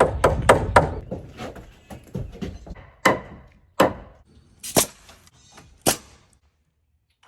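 Sharp knocks and bangs on wood: several quick ones in the first second, then four single loud strikes about a second apart, before the sound cuts off to silence.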